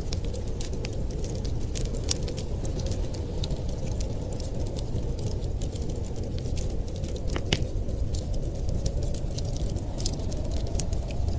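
Wood fire crackling, with frequent irregular sharp pops and one louder snap about seven and a half seconds in, over a steady low rush of wind.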